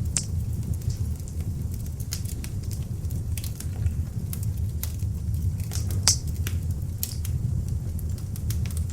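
Beech-log fire in an open fireplace burning with a steady low rumble of flame and frequent sharp crackles and pops, one louder pop about six seconds in.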